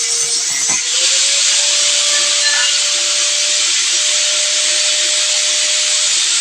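A small motor running steadily with a strong hiss over its hum. About a second in, the hum rises slightly in pitch and the hiss gets louder, then both hold steady.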